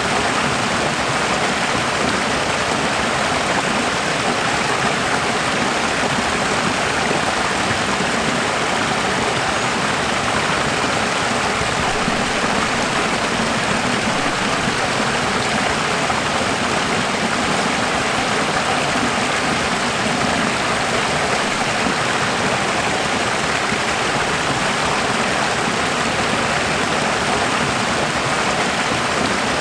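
Running water: a steady, even rush like a stream, with no change in level.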